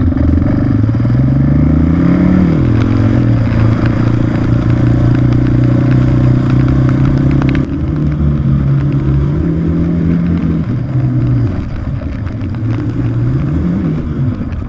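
Honda 650R dirt bike's single-cylinder four-stroke engine running at idle, with a short throttle blip about two seconds in and another near the end.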